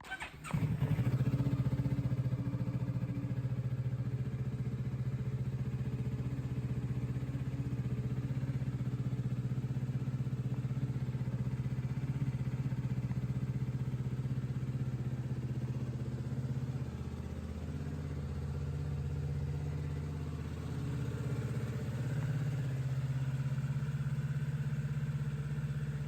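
Kawasaki Ninja 650's 649cc parallel-twin engine firing up and settling straight into a steady idle.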